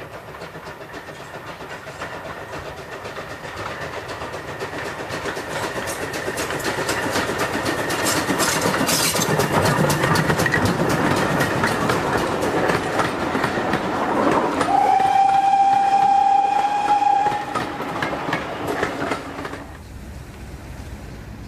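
Steam train running past, its rapid beat and wheel clatter growing louder over the first several seconds. Near the end the locomotive's whistle sounds one steady note for about two and a half seconds, and then the train noise falls away.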